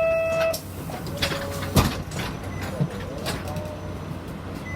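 Inside a city bus: the steady low hum of the engine, with a short electronic beep ending just at the start. Then scattered clicks and rattles, with one sharp knock about two seconds in.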